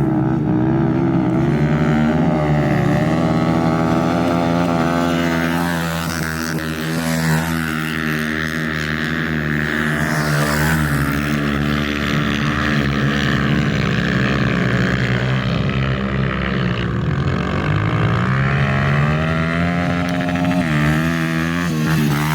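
Pit bike engines running hard and revving, their pitch rising and falling repeatedly with the throttle as they climb a sandy hill.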